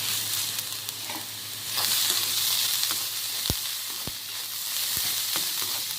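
Chopped onions sizzling in hot oil in a kadai while being stirred. The sizzle gets louder about two seconds in, and there are a few light knocks as the pan is stirred.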